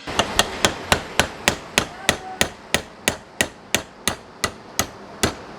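Hammer blows in a steady rhythm, about three a second, each strike with a short bright ring.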